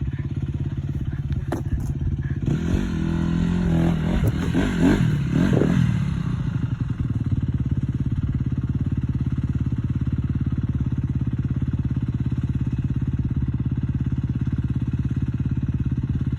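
Dirt bike engine running, revved up and down in a few bursts between about three and six seconds in, then settling back to a steady even run.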